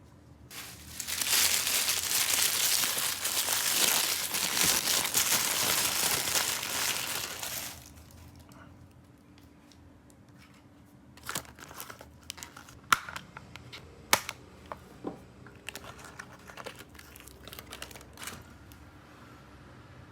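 Toy packaging crinkling and tearing steadily for about seven seconds as it is unwrapped, then, after a short pause, scattered light clicks and taps as the small pieces are handled.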